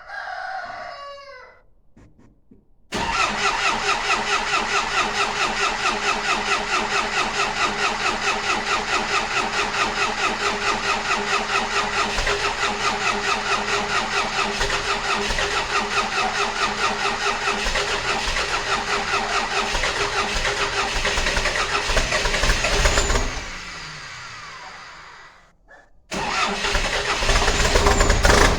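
MTZ-82 Turbo tractor's four-cylinder diesel being cold-started after glow-plug preheating: the starter cranks it steadily for about twenty seconds with an even chugging of about four to five compression strokes a second, then stops and it spins down. After a brief silence it is cranked again and the engine catches, running louder near the end.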